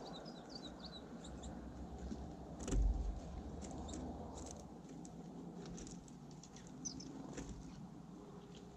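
Small birds at a feeder: a few short high chirps, with scattered clicks and taps of beaks, feet and seed on the feeder. A low thump about three seconds in is the loudest sound.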